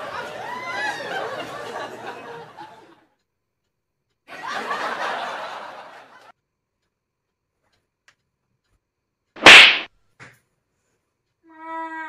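Stifled giggling, then a single sharp, loud open-hand slap on a person about three-quarters of the way through, followed by a short whimpered "maa" cry from the one struck.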